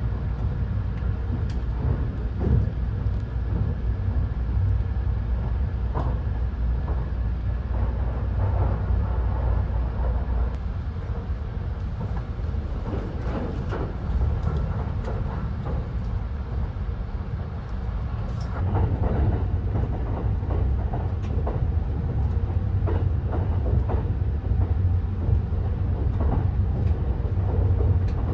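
Limited express train running, heard inside the passenger cabin: a steady low rumble that grows heavier about two-thirds of the way through, with scattered small clicks and rustles of packaging being handled.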